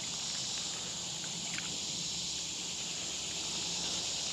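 Steady chorus of insects: an even, high-pitched buzzing hum that holds level throughout, with a faint tick or two about a second and a half in.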